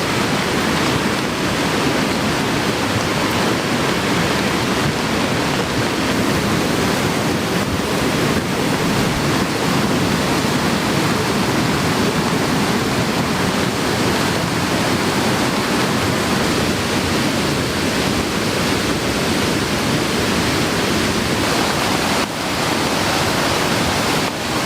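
Heavy rain with a swollen, fast-running valley stream: a loud, steady wash of water noise with no let-up.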